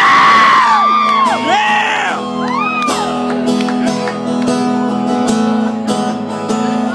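Instrumental passage of a country song: guitars and drums with steady held chords. Whoops and shouts rise and fall over it in the first two or three seconds.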